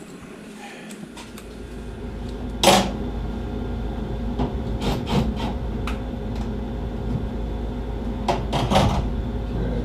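A furnace exhaust pipe being worked loose by hand: a sharp knock about three seconds in, then smaller clicks and scrapes of the pipe joint. Under it runs a steady low hum from the running furnace.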